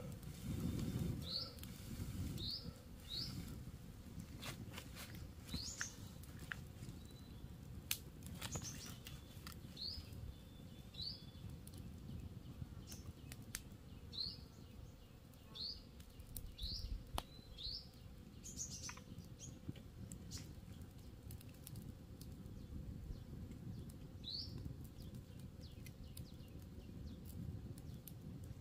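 A bird giving short rising chirps, about a dozen scattered irregularly, over a low steady background noise with occasional sharp clicks and knocks.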